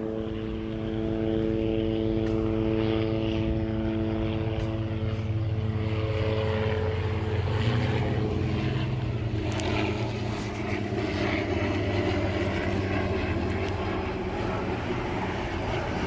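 Helicopter flying overhead, a steady engine and rotor drone whose pitched hum fades about halfway through, leaving a broader rumble.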